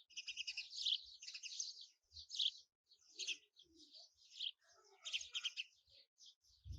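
Small birds chirping in a busy run of short, high calls, with a soft low thump near the end.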